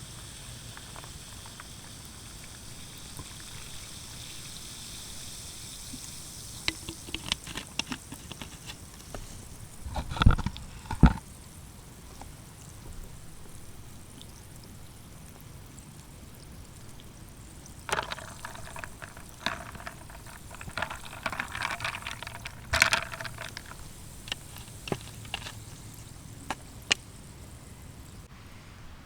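Liquid pouring steadily for about six seconds, then scattered clicks and knocks of handled gear, with two heavy thumps about ten seconds in and a burst of clatter a little past the middle.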